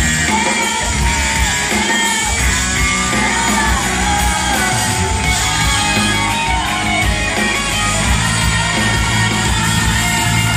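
Pop-rock band playing live, a lead singer over electric guitar and drums, with fans in the crowd yelling along.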